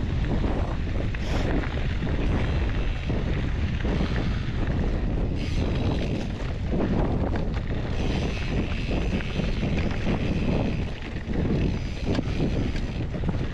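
Wind buffeting the microphone of a mountain bike descending fast, with tyre noise on the dirt and a few brief rattles from the bike.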